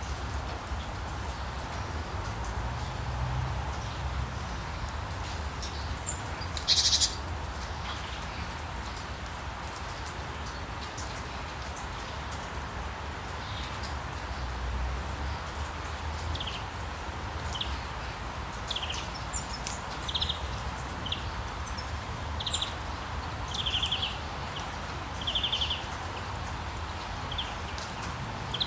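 Rainforest ambience: a steady hiss of rain with a low rumble beneath, and wildlife calling over it. One loud short call comes about seven seconds in. From about halfway, short pulsed calls repeat roughly once a second.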